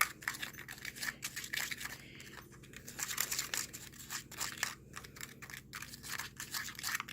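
A spoon stirring a dry powder mix of baking soda, flour and red cabbage powder in a cup: quick, irregular scraping and gritty crunching strokes, easing off briefly about two seconds in.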